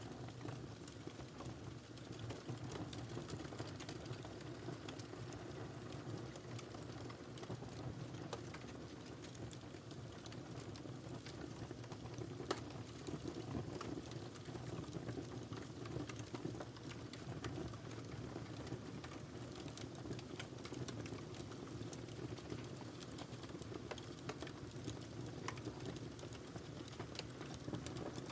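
Wood fire crackling in a fireplace: a steady low rush of flame under frequent small, irregular crackles and pops, with one louder snap about twelve seconds in.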